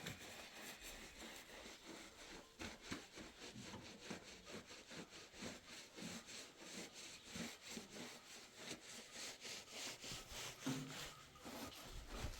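Faint, rhythmic back-and-forth sawing strokes, several a second.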